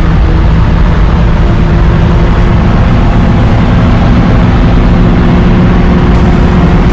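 Shelby GT500's V8 engine running loudly and steadily.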